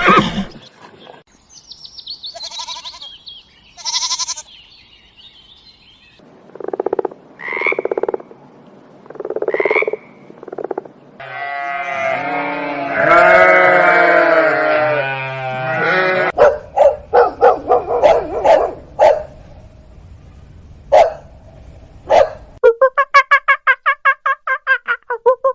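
A succession of different animal calls, one short clip after another: a few high calls, three calls that rise in pitch, a longer call, a series of short sharp sounds, then a fast run of repeated calls near the end.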